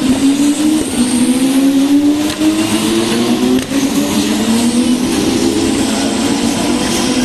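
Several Formula 1 cars' turbocharged V6 engines running together, each engine note climbing steadily in pitch as the cars accelerate, the notes overlapping and handing over one to the next.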